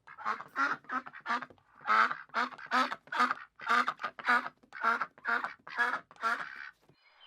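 A duck quacking in a long run of short, even quacks, about three a second, stopping near the end.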